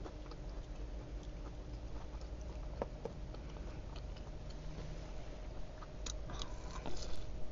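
A person chewing food up close, with soft wet mouth clicks and smacks over a faint steady hum.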